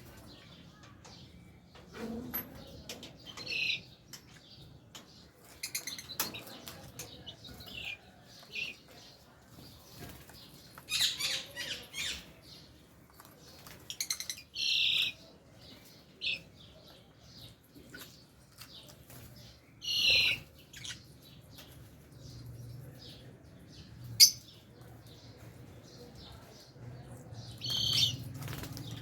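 Lovebirds calling in an aviary: short, sharp chirps and squawks at irregular intervals, with a sharp click late on.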